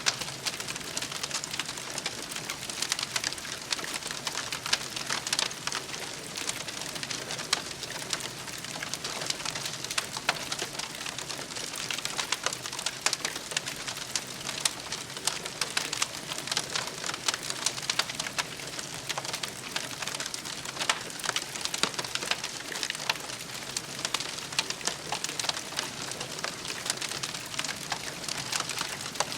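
Campfire burning with a steady dense crackle of small, sharp pops and snaps.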